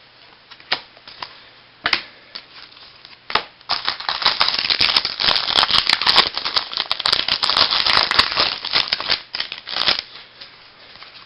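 A few separate clicks as a baseball card pack is handled, then about six seconds of dense crackling as the pack's wrapper is torn open and crumpled and the cards are handled, dying down near the end.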